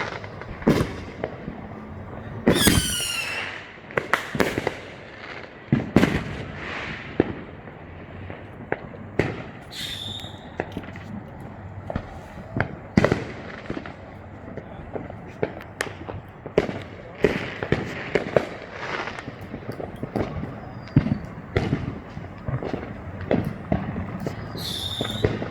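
Neighborhood consumer fireworks and firecrackers going off one after another, with sharp bangs near and far all through. A whistling firework sounds about three seconds in, and shorter whistles come around ten seconds and near the end.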